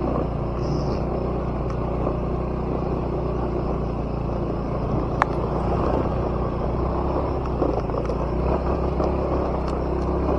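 Small motorcycle engine running steadily at low speed on a rough dirt track, with one sharp click a little past halfway.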